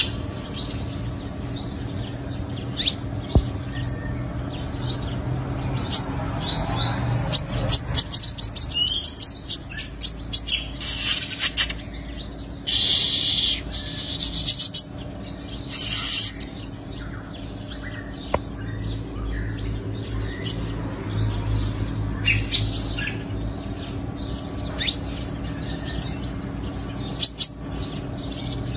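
Sunbird singing: a string of thin, high chirps with quick trills, including a fast run of repeated notes about 8 seconds in and loud, dense buzzy trills between about 11 and 16 seconds.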